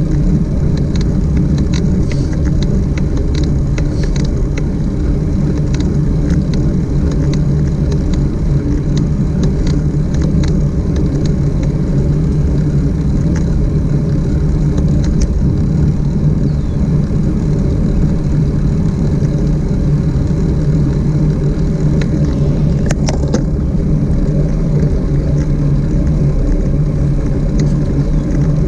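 Steady, loud low rumble of riding: wind and road noise on the microphone, with scattered light ticks and a short cluster of them about 23 seconds in.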